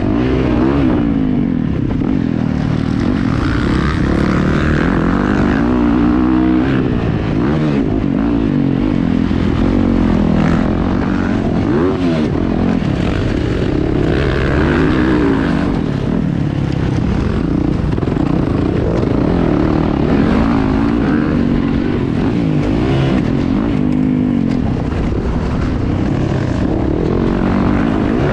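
Several motocross dirt bikes racing, their engines revving up and down over and over as they accelerate and back off, with overlapping engine notes.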